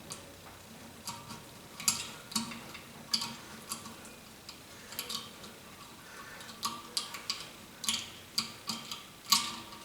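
Irregular light clicks and taps as stiff electrical wires are pushed and worked through a slot in the compressor's metal housing, some with a short metallic ring.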